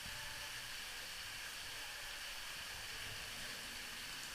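Steady hiss of cold water spilling down from an overhead waterfall feature onto a lazy river.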